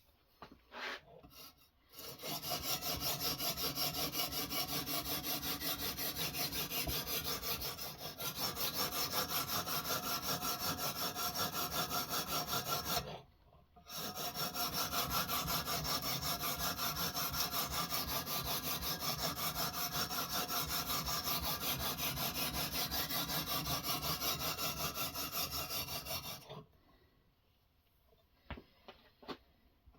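A knife's edge being sharpened on a guided-system stone, the stone stroked rapidly and steadily back and forth against the steel in a long run of scraping, with a brief break about halfway. A few light clicks come before and after the scraping.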